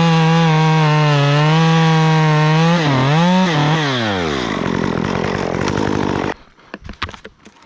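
Stihl MS 194T two-stroke top-handle chainsaw with a 1/4-inch chain running at high revs, dipping briefly twice. The throttle is then released and the engine winds down. The sound cuts off suddenly about six seconds in, leaving faint clicks.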